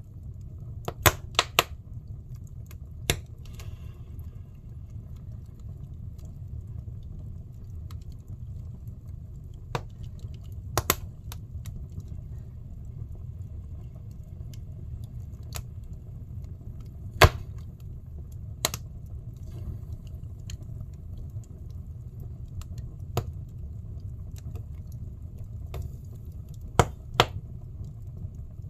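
Firewood burning in a fireplace: a steady low rumble of the flames with sharp, irregular crackles and pops, a few of them loud.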